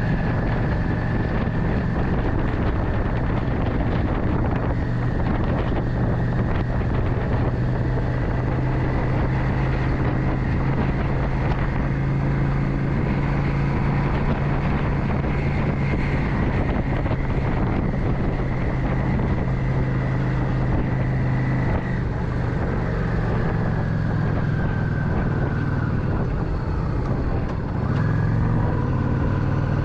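Motorcycle engine running steadily while riding, with a high whine above the engine hum and wind buffeting the microphone. The engine note drops about two-thirds of the way through and changes again near the end.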